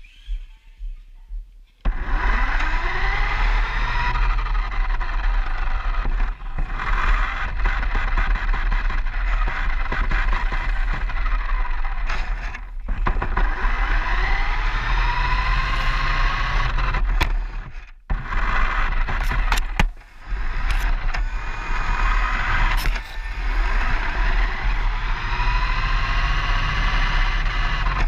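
RC car motor whining and rising and falling in pitch as the car speeds up and slows down, heard close up from a camera on the car, with heavy rumbling wind and road noise. It starts suddenly about two seconds in, with a few brief dropouts.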